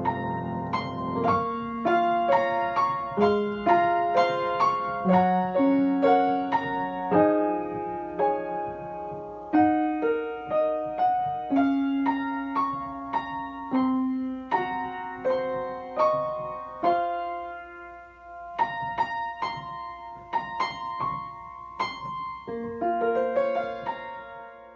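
Solo piano music: a slow melody of single struck notes, each ringing and dying away, over lower accompanying notes. It grows quieter over the last few seconds.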